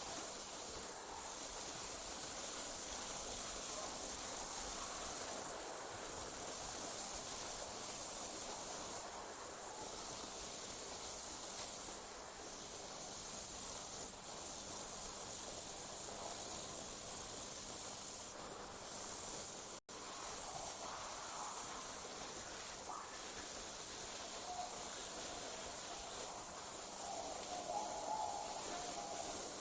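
Crickets trilling in a steady, high-pitched drone that dips for a moment every few seconds, cutting out completely for an instant about two-thirds of the way through.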